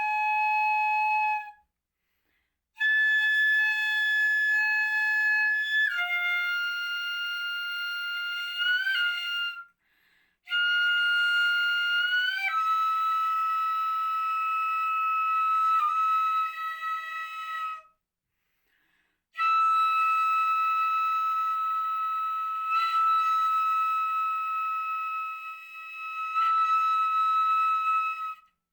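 A ryūteki, the bamboo transverse flute of gagaku, playing a slow solo gagaku melody. It holds long high notes joined by short pitch slides and ornaments. The line falls into four phrases, with brief silent breath pauses about 2, 10 and 18 seconds in.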